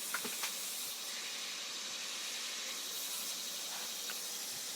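Garden hose spraying water, a steady hiss.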